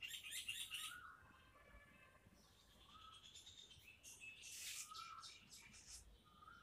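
Faint bird chirping: a short rising-and-falling note repeats every couple of seconds, with higher twittering near the start and again about two-thirds through.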